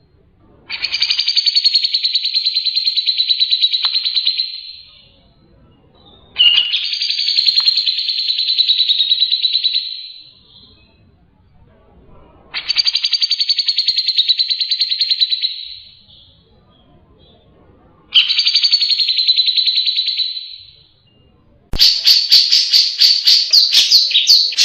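Cucak jenggot (grey-cheeked bulbul) singing: four long, buzzy, rapidly pulsed phrases of about three to four seconds each, with short pauses between them. Near the end, after a sharp click, a faster stuttering run of sharp, higher notes starts abruptly.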